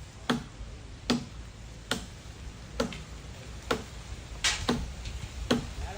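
Steady, evenly paced blows of a tool striking wood, seven strikes about one every second, each a sharp crack.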